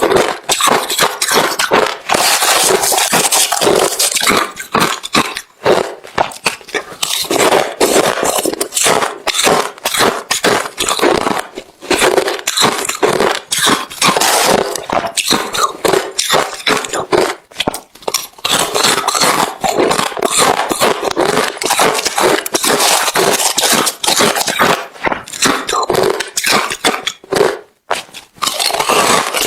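Close-miked chewing of hard refrozen crushed ice: dense, continuous crunching, broken by a few brief pauses between mouthfuls.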